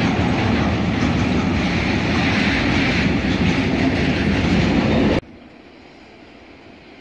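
Freight train of tank wagons rolling past: a loud, steady rumble of wheels on rails. About five seconds in it cuts off abruptly, giving way to a much quieter steady hum.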